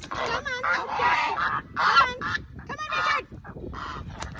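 Domestic geese honking, a quick run of harsh calls one after another that grows quieter after about three seconds.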